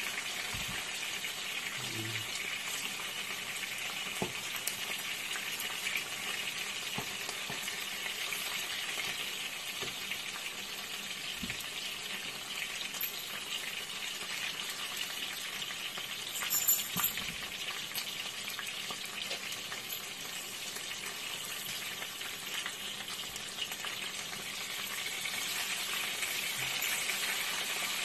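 Marinated chicken pieces sizzling steadily as they fry in oil in a nonstick pan, with occasional light clicks of a utensil turning them. A brief louder clatter comes a little past halfway.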